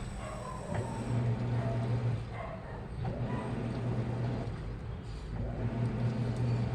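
Washing machine running, a low motor hum that swells and eases every second or two.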